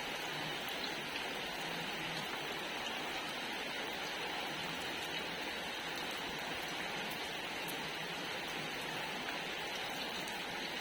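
Steady rain falling, an even hiss of drops with faint scattered ticks of individual drops.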